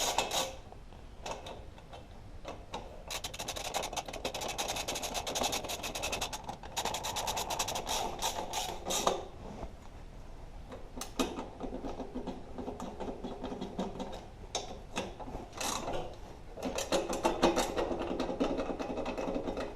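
Rapid, even ratcheting clicks in two long runs, with a few separate knocks between them, from a tool driving in the bolts that hold the exhaust guard onto a small engine.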